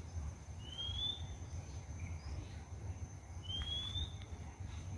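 A bird calls twice, each a short upward-sliding whistle, about three seconds apart, over a thin steady high insect drone and a low rumble.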